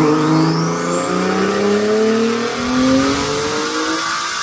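Turbocharged Nissan 370Z 3.7-litre V6 on a dyno pull, its engine note climbing steadily in pitch as it revs up under load, then easing off near the end. A high whistle climbs sharply in the first second.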